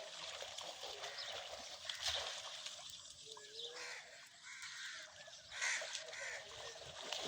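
Animals calling outdoors: a run of short, high chirping calls over a steady background hiss, clustered in the middle and latter part.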